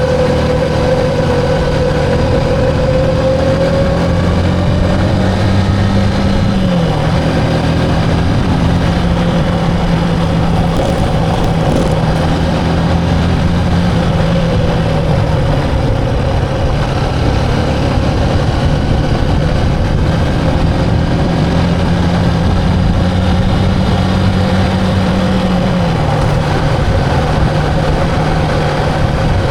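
Motorcycle engine running at a steady speed while riding, its note holding even with a couple of small shifts in pitch, over a constant rush of road and wind noise.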